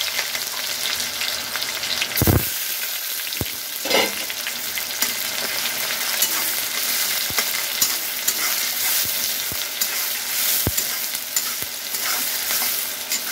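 Chopped onion sizzling in hot oil in a kadhai, stirred with a metal spatula that knocks and scrapes against the pan a few times.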